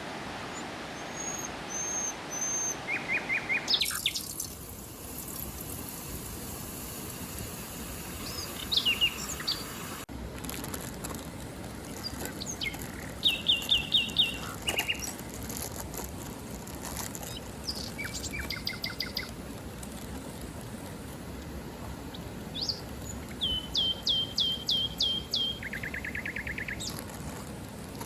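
Several wild birds calling with short, sharp notes, many of them in quick runs of five or six repeated chirps, over a steady background rush.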